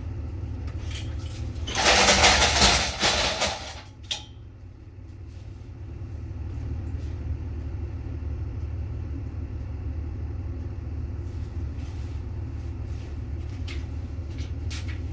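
Delivery truck's engine idling with a steady low rumble. About two seconds in, a loud burst of hissing lasts about two seconds and ends with a short click.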